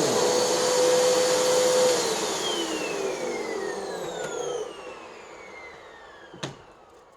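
Hoover NanoLite upright vacuum running, its lower hum dropping away at the start. About two seconds in, the motor's whine falls steadily in pitch as it spins down and fades out over several seconds, with a single sharp click about six and a half seconds in. This is the spin-down heard when the vacuum 'pooped out' during a test of a hot-glue brushroll pulley repair; the owner suspects something slipping or broken.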